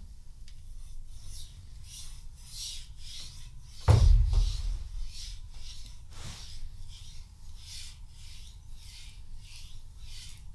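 Knife blade stroked back and forth on an 8000-grit whetstone, a quick rhythmic scratching at about two to three strokes a second: the light scratch of the burr from the other side being worn away. A dull thump about four seconds in.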